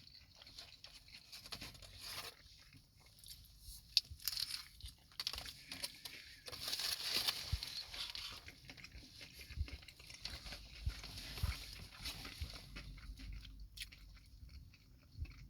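A person chewing a mouthful of fried chicken sandwich: faint, irregular chewing with small clicks, a little louder for a couple of seconds in the middle.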